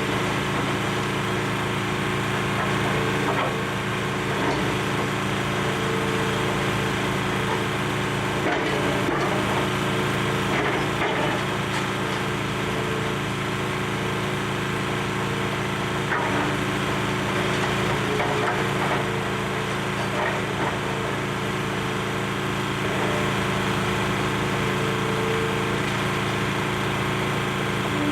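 Demolition excavator's diesel engine running steadily under load, with scattered cracks and crunches as building debris is broken and pulled apart.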